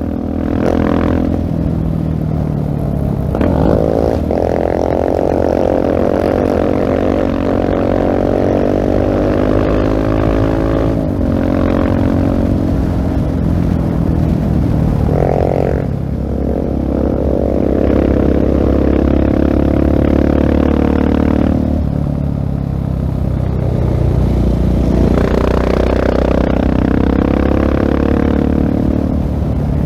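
2016 Husqvarna 701 Supermoto's single-cylinder engine through a LeoVince full-system exhaust, under way. The engine note climbs with the revs and breaks off briefly at gear changes several times, then picks up again.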